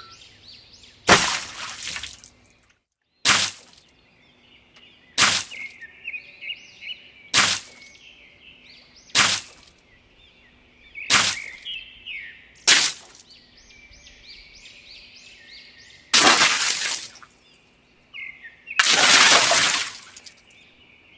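A series of sharp crashing impacts about every two seconds, then two longer, noisier crashes near the end, over a background of chirping birds.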